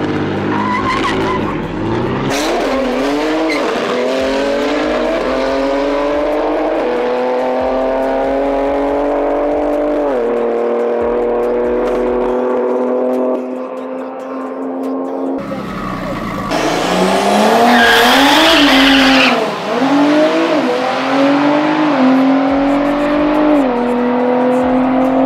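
Highly tuned BMW turbocharged straight-six drag cars accelerating flat out down a drag strip, the engine note climbing and dropping back at each upshift, several times over. About two-thirds of the way through comes a louder stretch with a rushing hiss over the engine.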